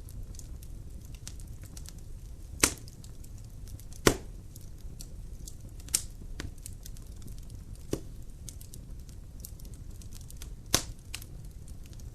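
Logs burning in a fireplace, crackling with many small sharp ticks and about five louder pops over a low, steady rumble.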